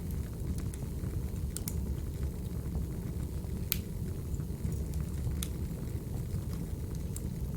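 Crackling wood fire: a steady low rumble of burning logs with scattered sharp pops and snaps, the loudest about halfway through.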